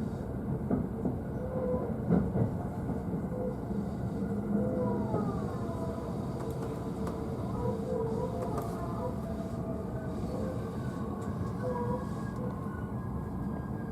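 JR East E531 series electric train heard from the upper deck of a bilevel car: steady running rumble with motor whine gliding up and down in pitch, and a few sharp clicks in the first seconds.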